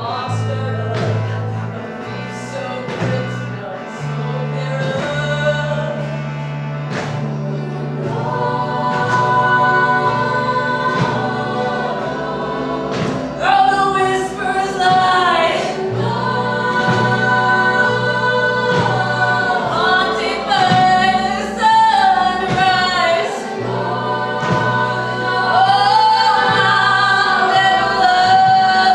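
A group of voices singing together in harmony over a steady low accompaniment, swelling louder and fuller about halfway through.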